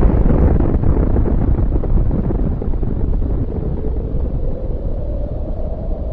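Rumbling tail of an explosion sound effect: a loud, low, noisy rumble that slowly fades away.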